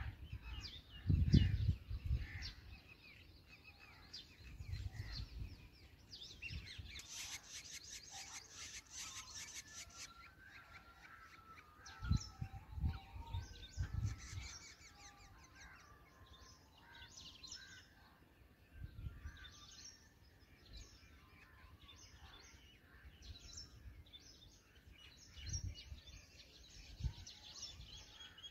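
Birds chirping and calling in short high notes and brief whistles, with a dense burst of rapid high chatter about seven to ten seconds in. Low thumps on the microphone interrupt them, the loudest about a second in, others around thirteen seconds and near the end.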